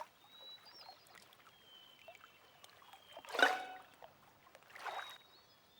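Cartoon water sound effects of a small character splashing in a puddle: a short splash about three and a half seconds in and a softer one near the end, with faint high thin tones between.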